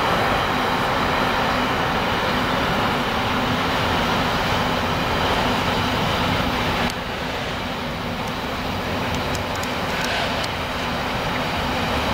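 Container wagons of a long intermodal freight train rolling past at speed: a steady rumble of steel wheels on the rails, slightly quieter from about seven seconds in, with a few light clicks.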